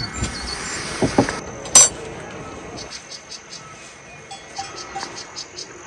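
Small bells on grazing livestock clinking irregularly, with a single sharp knock a little under two seconds in and a few short high bird chirps near the start.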